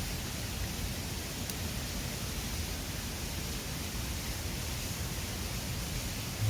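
Steady rushing of a mountain river flowing past the bank, an even noise with no pauses, with one faint click about a second and a half in.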